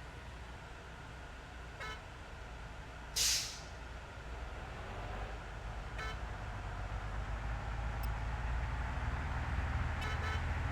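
Heavy truck's engine rumbling steadily, growing louder in the second half, with one short loud air hiss about three seconds in, typical of an air brake. A few brief high chirps sound about two, six and ten seconds in.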